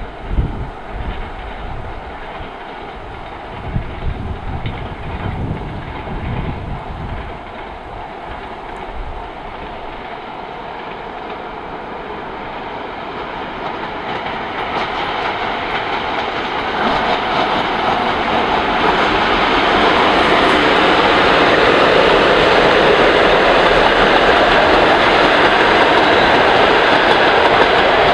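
Passenger train hauled by a Škoda-built ChS7 electric locomotive approaching and passing close by. The rumble and clickety-clack of wheels on the rails grow steadily louder from about halfway through and stay loud near the end, with low buffeting in the first few seconds.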